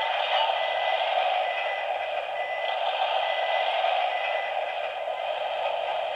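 Freight-yard ambience from an MTH O-scale F3A model locomotive's onboard sound system: a steady radio-like static hiss, thin and band-limited, from the model's small speaker.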